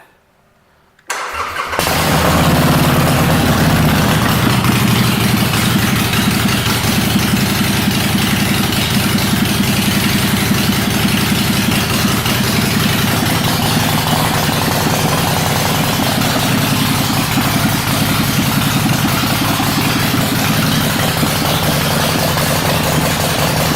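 2014 Harley-Davidson Sportster 1200 Custom's air-cooled V-twin engine cranked briefly by its starter about a second in, catching and then idling steadily.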